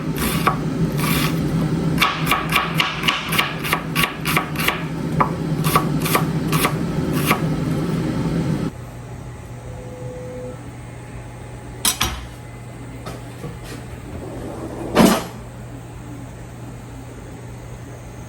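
Kitchen knife mincing an onion on a cutting board: a quick, regular run of chopping strokes that stops abruptly about nine seconds in. After that only a low steady hum remains, with two single knocks.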